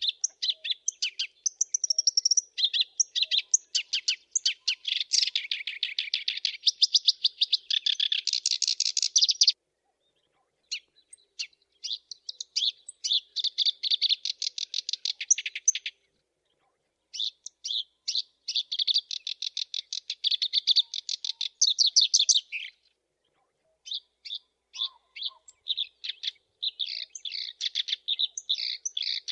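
Black-browed reed warbler singing: phrases of fast, rapidly repeated chirping notes lasting several seconds each, with pauses of about a second between them.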